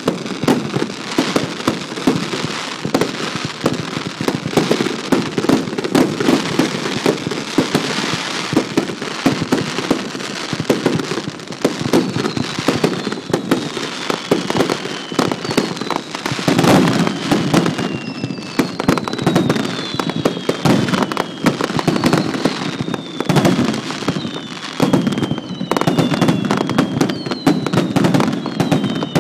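Set-piece fireworks going off in a dense, continuous crackle of many small pops. From about twelve seconds in, a series of high whistles sound one after another, each falling in pitch.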